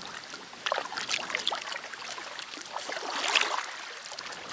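Kayak paddles splashing and dripping in lake water: two paddle strokes, about a second in and about three seconds in, with water trickling off the blades between them.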